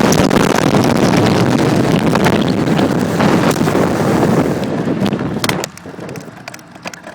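Heavy wind rush over the microphone from a bicycle descending at high speed, with tyre and road noise; it drops off sharply about five and a half seconds in as the bike slows.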